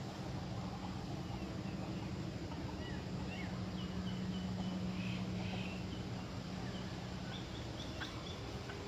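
A steady low hum with small birds chirping briefly in the background, and a short rustle near the end.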